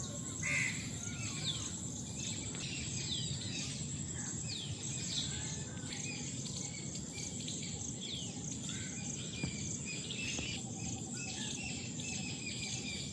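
Tropical forest ambience: many birds calling, with repeated short whistles that fall in pitch, over a steady high-pitched insect drone and a low, even background noise.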